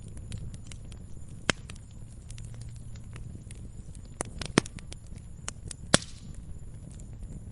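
Wood fire crackling in a fireplace: irregular small pops and ticks over a low steady rumble, with a few louder snaps about a second and a half in, twice around four and a half seconds, and once, loudest, near six seconds.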